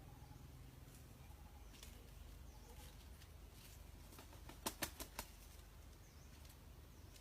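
A rooster claps its wings four times in quick succession, the wing-beat a cock gives just before crowing, over a faint low hum.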